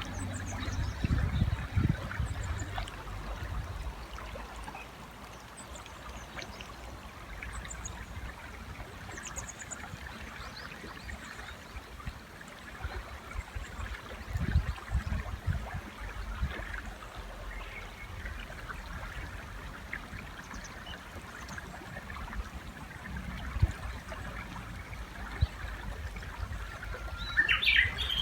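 River water running steadily, with a few faint high bird chirps. About a second before the end, a Japanese bush warbler starts singing loudly: a rising whistle followed by quick repeated notes.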